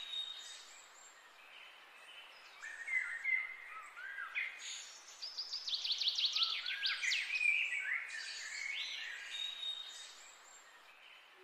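Small songbirds chirping and trilling, with a quick run of downward-sweeping whistled notes in the middle. The calls break off for about two seconds near the start.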